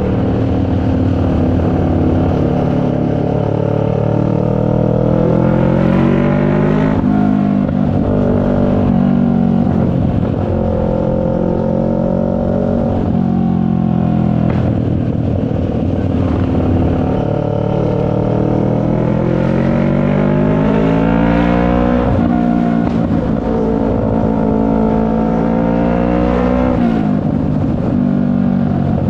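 CFMoto 400NK's parallel-twin engine pulling under way: its pitch climbs as the bike accelerates, then drops sharply at gear changes about seven seconds in, around twenty-two seconds and again near the end.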